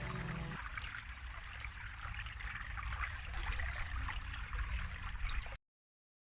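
Running water trickling steadily like a small stream, with soft held music tones stopping about half a second in; the sound cuts off abruptly near the end.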